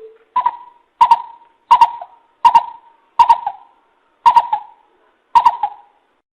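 Greater coucal (bìm bịp) calling a series of about seven hollow, owl-like hooting notes, evenly spaced, each starting sharply.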